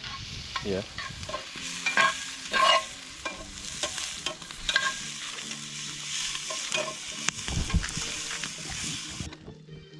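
Food sizzling in a pan while it is stirred, with utensil scrapes and clinks against the pan; the sizzle cuts off suddenly near the end.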